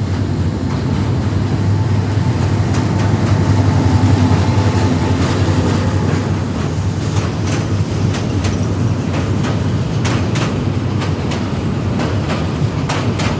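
A train running past on a bridge: a steady heavy rumble with a faint pitched whine in the first half, then a run of sharp clacks as the wheels cross the rail joints.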